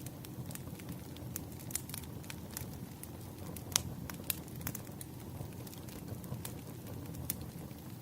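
Campfire burning: a steady low rumble of flames with scattered crackles and pops, the sharpest one about four seconds in.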